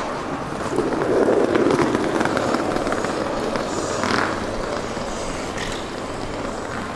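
Railway ambience: a rumbling noise that swells about a second in and eases off, with a brief sharper sound about four seconds in.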